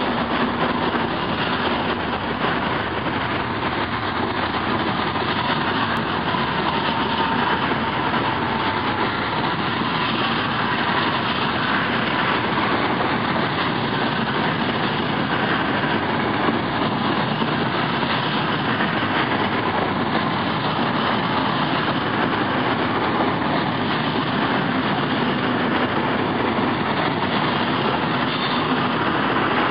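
Intercity passenger coaches rolling past close by: a steady noise of wheels on rails that does not let up.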